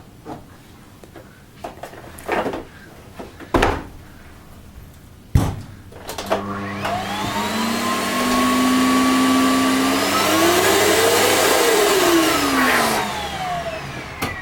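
Vax Power 7 Pet vacuum cleaner with a newly replaced motor being test-run. A couple of knocks and a click come first. Then the motor spins up with a rising whine, runs for a few seconds and winds down with a falling whine as it is switched off.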